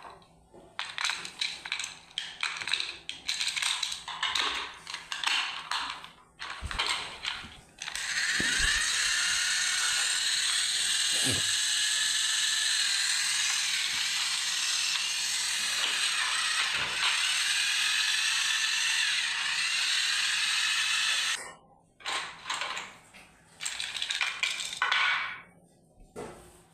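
Small motor and plastic gears of a toy train engine whirring steadily for about thirteen seconds before stopping abruptly, with plastic clicking and rattling before and after.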